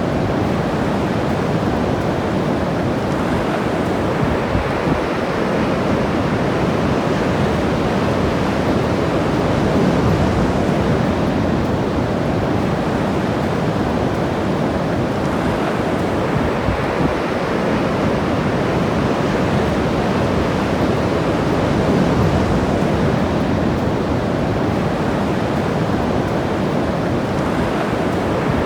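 Ocean surf washing onto the shore, a steady rush of breaking waves that swells a little about a third of the way in and again near the end, with some wind on the microphone.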